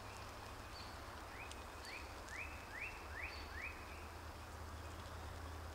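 A bird singing in woodland: a run of six short upslurred notes, about two a second, growing a little louder through the run, with a few fainter high chips from another bird and a faint steady forest background.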